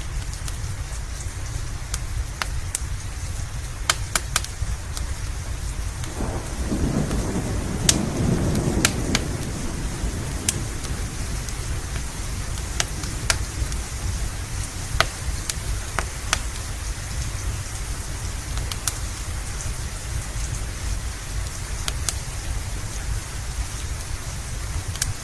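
Steady rain with scattered sharp crackles of a wood fire. About six seconds in, a roll of thunder rumbles for roughly four seconds and dies away.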